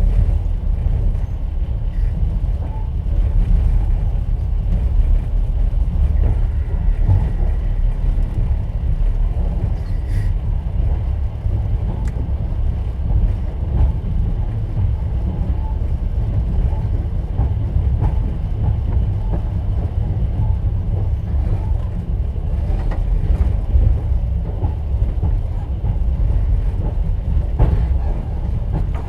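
Moving passenger train heard from inside an open-plan sleeping car: a steady low rumble of the carriage running, with the clack of the wheels and a few faint knocks.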